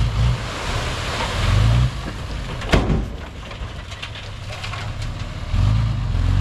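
Heavy diesel engine of a Komatsu bulldozer rumbling and surging three times over a steady rushing noise, with one sharp knock about three seconds in.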